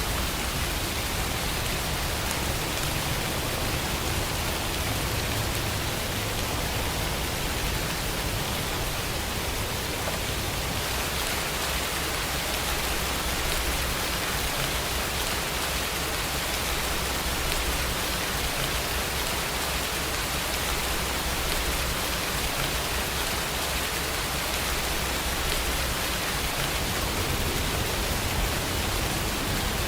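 Steady rainfall, an even, unbroken hiss of falling rain.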